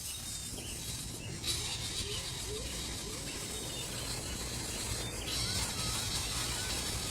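Outdoor ambience: a steady hiss over a low rumble, with faint, short bird chirps a few times, low-pitched a couple of seconds in and higher-pitched near the end.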